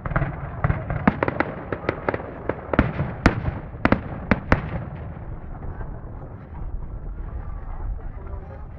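Fireworks display: aerial shells bursting in quick succession, a dozen or so sharp bangs over the first four and a half seconds, then a lower rumbling crackle as the barrage thins out.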